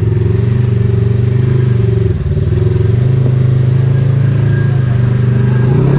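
Polaris RZR side-by-side engine running steadily under throttle, with a brief dip about two seconds in.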